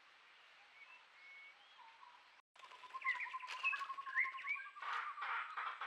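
Wild birds calling: a few faint whistled notes, then after a short break a louder mix of overlapping chirps and chattering calls over a steady high note.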